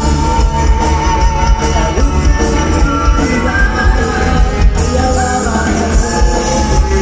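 Live band playing rock music with a singer, loud, with heavy bass.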